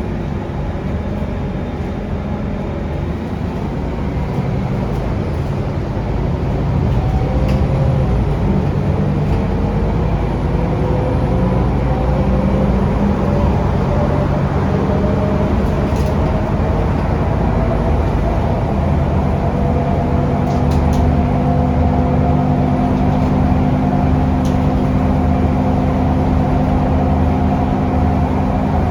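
Scania DC9 five-cylinder diesel of an articulated city bus running under way, heard from on board, its pitch climbing slowly as the bus gathers speed and then holding steady. A few light clicks and rattles sound over it.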